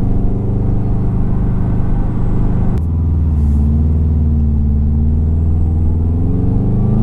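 E85-tuned 2002 Subaru WRX's turbocharged flat-four engine heard from inside the cabin while driving, running steadily. About three seconds in the sound cuts to a lower, steady drone that starts to rise near the end.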